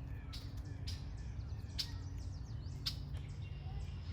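Small wild birds chirping, many short high calls overlapping throughout, with a few sharp clicks about a second apart. A steady low rumble runs underneath.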